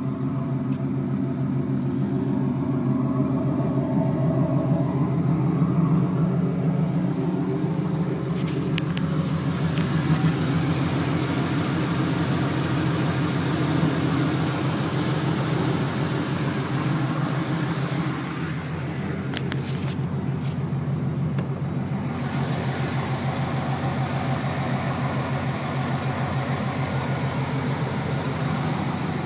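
1996 Camaro Z28's LT1 5.7-litre V8 running steadily with a rapid, even ticking from the valve train, which the owner thinks may call for a valve adjustment.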